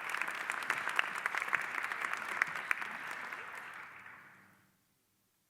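Audience applauding, dense clapping that fades away about four seconds in.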